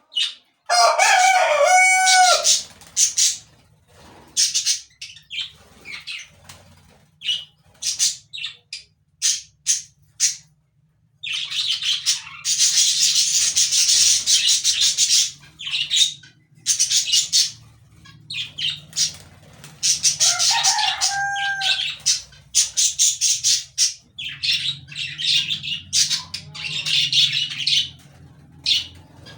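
Birds calling in a rapid series of harsh screeches and chirps, with a long unbroken run of screeching in the middle and two short pitched calls, one near the start and one about two-thirds of the way in. A faint low hum runs underneath.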